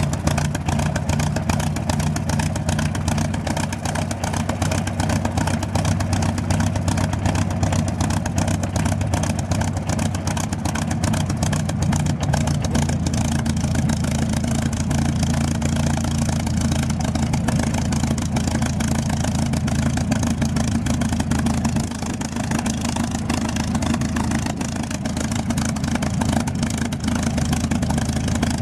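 Piston aircraft engine running steadily with a low, even hum, easing slightly about three-quarters of the way through.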